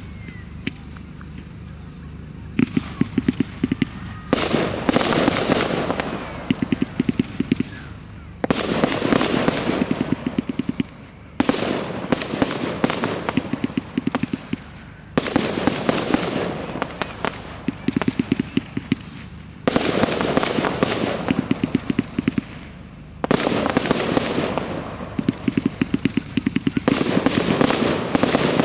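Professional fireworks display: repeated volleys of rapid, sharp bangs, about seven in all, each followed by a few seconds of dense crackling.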